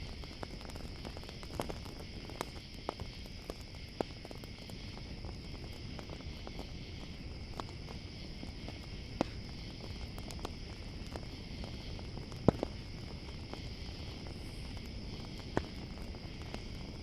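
Campfire crackling with irregular sharp pops, the loudest about twelve seconds in, over a steady chorus of crickets chirring.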